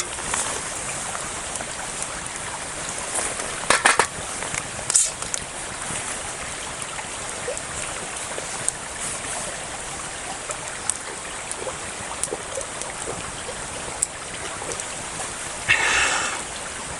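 Steady rushing of a flowing stream, with a few sharp clicks about four and five seconds in and a short hissing burst near the end.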